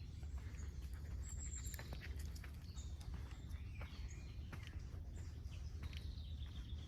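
Birds chirping and calling with many short, high notes, over a steady low rumble, with scattered soft clicks.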